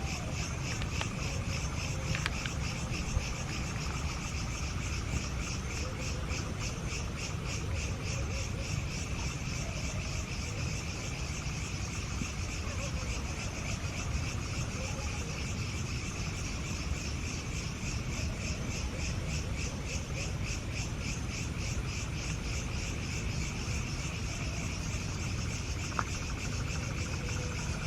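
A forest insect chorus of crickets or cicadas, keeping up a steady, fast-pulsing high trill, over a steady low rumble and a couple of faint clicks.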